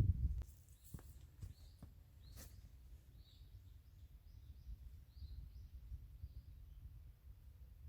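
Quiet outdoor ambience: a small bird chirps several times in quick succession over a low steady rumble, with a few light clicks in the first couple of seconds.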